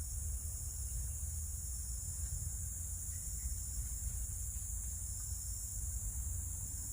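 Steady high-pitched chorus of insects, even and unbroken, over a constant low rumble.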